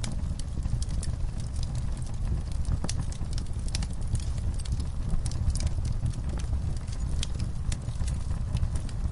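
Wood fire burning in a fireplace: irregular crackles and sharp pops of burning logs over a steady low rumble of the flames.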